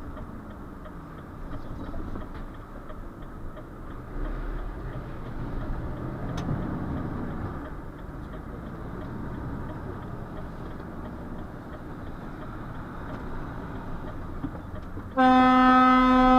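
Truck cab noise, a steady low rumble of engine and road, then about 15 seconds in a loud, steady horn blast starts suddenly and holds.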